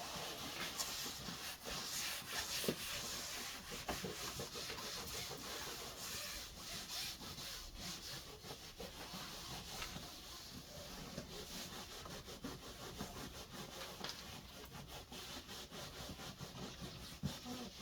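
Rough rubbing and scraping strokes against the car's headliner board and fabric, with many small clicks and ticks scattered through.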